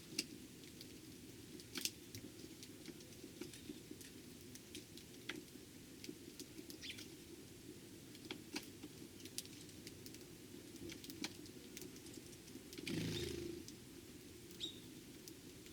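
Eurasian tree sparrows feeding: scattered small sharp clicks and taps of pecking and hopping, with a brief louder rustle about thirteen seconds in and a faint chirp or two, over a steady low hum.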